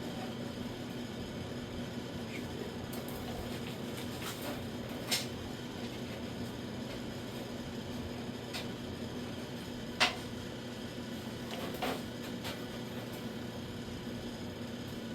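Steady machine hum with a few short, sharp clicks and knocks, the loudest about ten seconds in.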